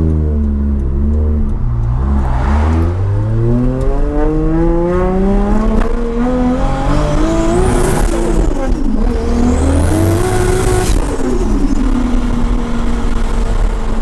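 Turbocharged car engine pulling hard under full throttle: its pitch climbs for several seconds, drops at a gear change about eight seconds in, and climbs again with a high whine rising alongside. Near the end it settles to a steady lower note as the throttle comes off, after reaching about 100 mph.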